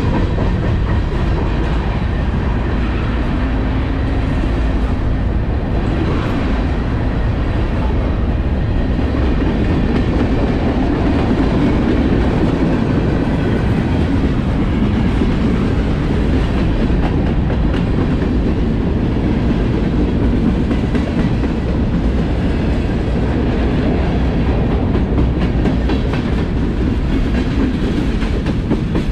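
CSX freight train rolling past, a steady loud noise of wheels on the rails that carries on without a break.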